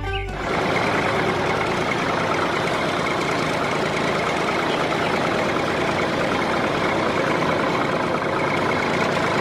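Homemade tractor's engine running steadily, a dense rapid chugging that cuts in about half a second in.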